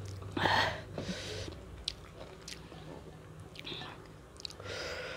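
A person chewing and biting food into a close microphone: several short bites and chews, the loudest about half a second in, with small sharp mouth clicks between them.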